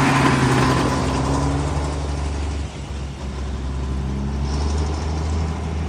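Engine of an old lorry running as it passes at low speed: loudest with a wash of noise in the first two seconds, then settling to a steady low hum.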